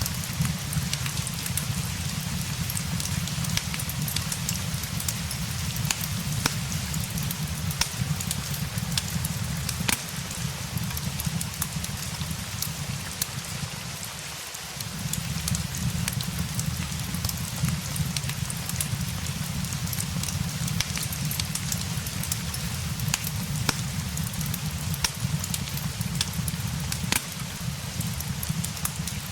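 Steady rain mixed with a crackling fireplace: an even hiss scattered with frequent small sharp pops, over a steady low rumble.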